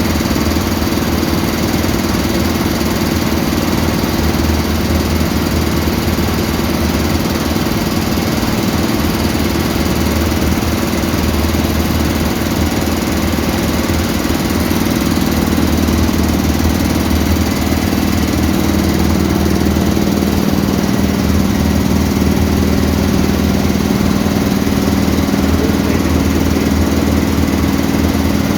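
Ship's emergency air compressor running steadily while it charges the emergency air bottle: a loud, even machine hum that gets slightly louder about halfway through.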